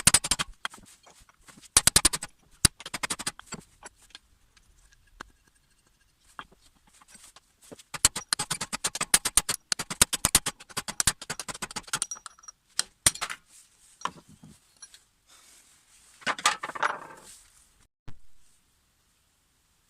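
Quick bursts of sharp metallic clicking and rattling from hand tools and small metal parts being handled, with a short duller scraping patch near the end.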